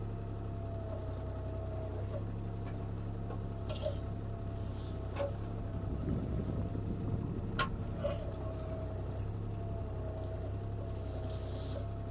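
CAT 303C CR mini excavator's diesel engine running steadily with a steady whine, while the bucket digs to loosen the ground around a tree. Scattered knocks and clicks, a rougher scraping stretch near the middle, and two short hissing bursts.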